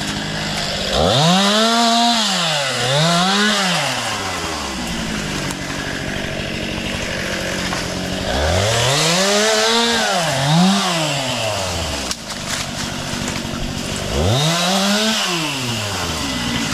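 Chainsaw idling, revved up and let back down to idle five times, mostly in quick pairs, as when cutting brush.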